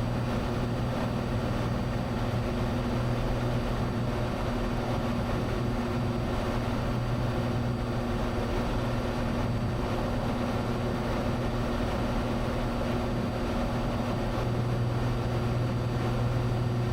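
Cessna 182's piston engine and propeller running steadily in flight, heard from the cabin as a constant low drone with steady tones.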